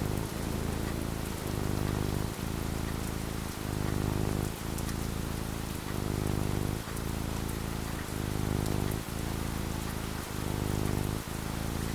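Steady rain falling, over a low rumble that swells and dips about once a second.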